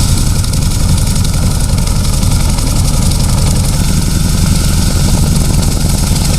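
Boeing CH-47 Chinook tandem-rotor helicopter running loud and steady, with a rapid, even beat from its rotors over a deep low rumble.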